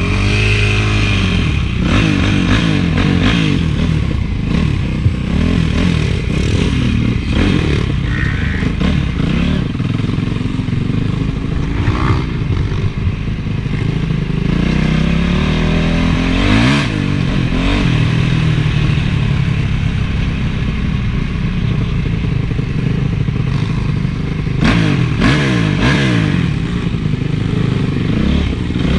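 Honda CRF450 single-cylinder four-stroke motocross engine being ridden hard, its revs rising and falling over and over as the throttle is worked. There are a few sharp knocks and clatter from the bike along the way.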